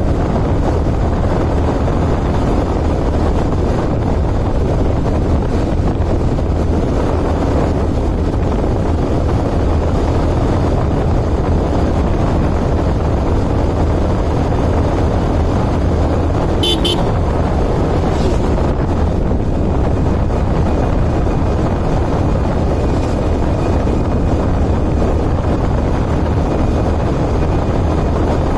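Steady running and road noise of a moving vehicle, with a brief high-pitched pulsing sound about 17 seconds in.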